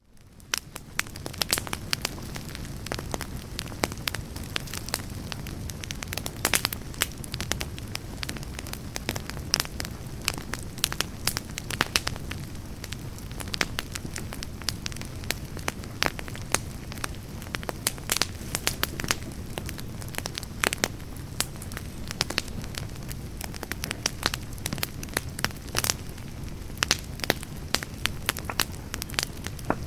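Wood campfire burning: a steady low rush of flame with frequent sharp crackles and pops from the burning firewood.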